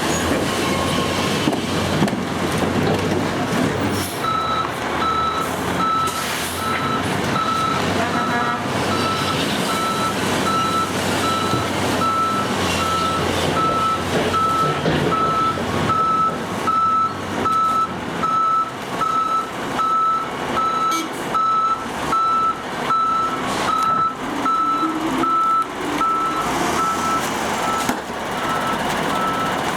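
Recycling truck backing up: its reverse alarm starts about four seconds in and beeps at a steady pace over the truck's engine noise until near the end.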